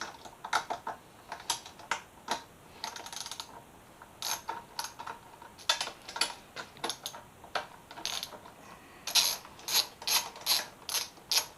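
Ratchet wrench with a 10 mm socket clicking in short irregular runs as the mirror bolts are backed out, the clicks coming quickest in the last few seconds.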